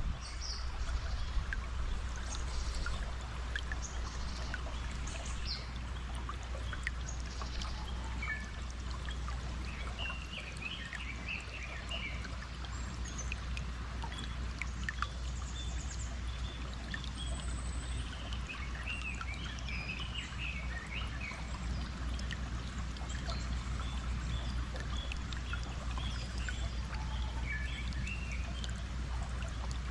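Steady rush of flowing stream water, with small birds chirping on and off above it.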